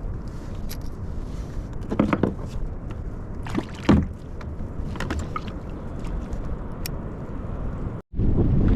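Steady low rumble of wind and water around a kayak on open water, with several short knocks and splashes from handling gear aboard. Near the end the sound drops out for an instant and comes back louder.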